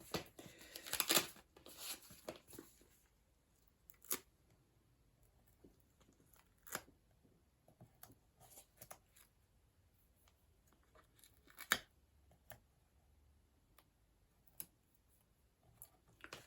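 Paper and card being handled on a crafting desk: rustling for the first few seconds, then scattered light taps and clicks, the sharpest one about twelve seconds in.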